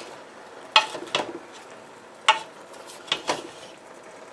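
A spoon stirring chunks of chicken and vegetables in a cooking pot, knocking against the pot about six times at irregular intervals.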